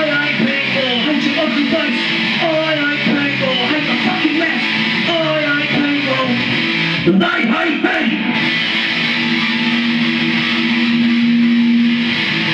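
Guitar music played live, a run of short bending notes, then one long held note for about three seconds near the end.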